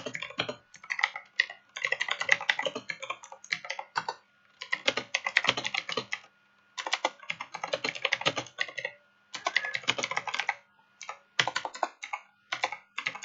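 Rapid typing on a computer keyboard, in bursts of one to two seconds of fast key clicks with short pauses between them.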